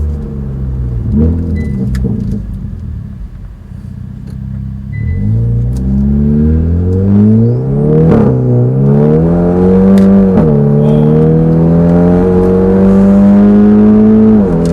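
Hyundai i30 N's 2.0-litre turbocharged four-cylinder accelerating hard with its sports exhaust valves open, a deep, thuddy note climbing in pitch and dropping sharply at each quick dual-clutch upshift, three shifts in the second half after an easier stretch near the start.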